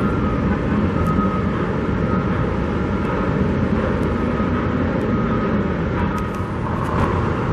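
Steady low rumble of heavy construction machinery and traffic, with a faint reversing alarm beeping on and off.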